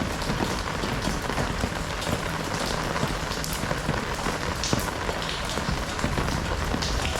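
Heavy rain falling steadily, a dense hiss with individual drops pattering on surfaces close by.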